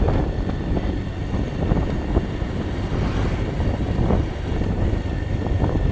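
Motorcycle riding over a rough, broken road: the engine runs under a steady rumble of wind and road noise, with occasional knocks from bumps.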